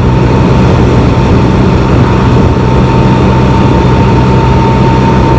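Can-Am Spyder three-wheeled motorcycle running at a steady cruise, engine drone mixed with wind and road noise, with a thin steady high whine over it.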